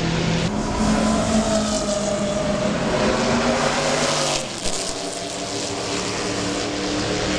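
Ford GT40 racing car's V8 engine running hard at speed. About four and a half seconds in, the engine note changes and drops in level.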